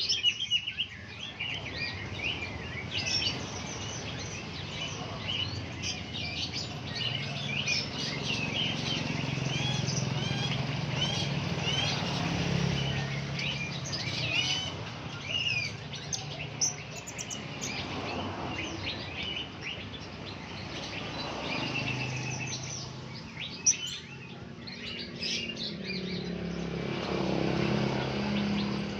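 Many blue-crowned hanging parrots (serindit) chirping together in a dense, unbroken chatter of short high calls, over a low hum in the background.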